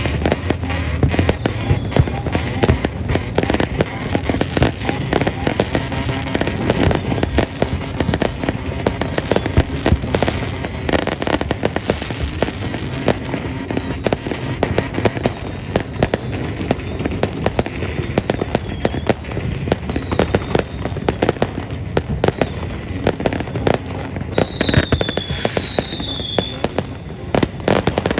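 Fireworks display: a dense, unbroken barrage of bangs and crackles. A short high whistle sounds near the end.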